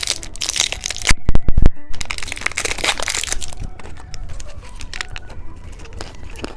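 Candy packaging being handled and opened: crinkling and crackling with sharp clicks, broken by a few dull bumps about a second in, then quieter rustling.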